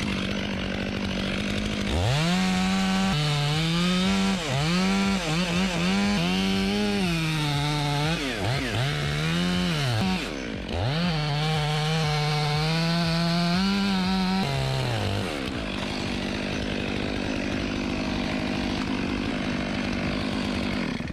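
Chainsaw cutting wood, its engine pitch sagging under load and recovering again and again as the chain bites. About fifteen seconds in, the engine winds down and only a steady rushing noise remains.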